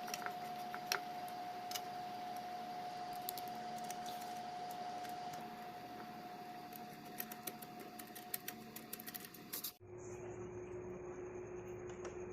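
Scattered light metallic clicks and taps of small engine parts and tools being handled, over a steady hum. The hum drops to a lower pitch suddenly near the end.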